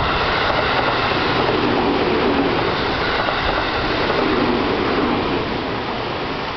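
JR Central 373 series electric multiple unit passing at speed without stopping. It makes a loud, steady rush and rumble of wheels on the rails, which eases slightly near the end as the last car goes by.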